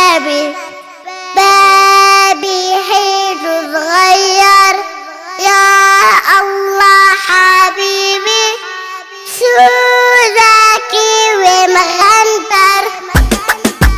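A child singing an Arabic children's song, holding long notes in a steady melody over little accompaniment. Near the end a rhythmic beat with deep drum hits comes in.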